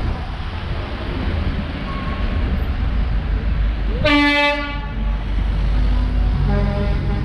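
Steady low vehicle rumble, with one loud horn blast of under a second about four seconds in.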